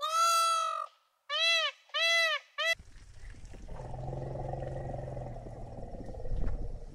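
Indian peacock calling: one long, loud call, then two shorter arching calls and a clipped fourth. The peacock calls then give way to an outdoor background with a low hum.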